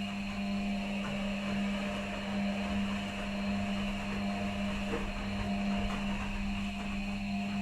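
Washing machines running on a quick wash cycle: a steady motor hum with a few fixed higher tones above it.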